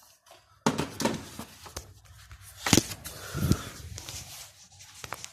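Scattered clicks and knocks of hand tools and metal parts being handled while an engine's cooling system is taken apart. The sharpest click comes nearly three seconds in.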